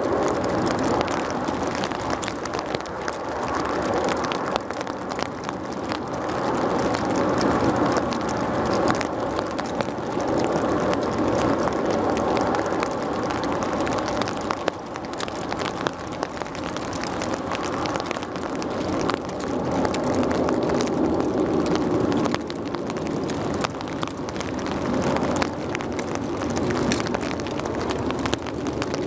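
Jet airliner engine noise in heavy rain, a steady rushing that swells and eases, with many small ticks of raindrops.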